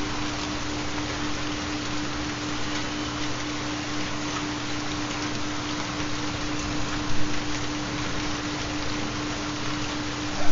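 Steady rain falling, an even hiss, with a continuous low steady tone underneath: the carrier of a 4 Hz theta binaural beat. Two brief louder moments come about seven seconds in and near the end.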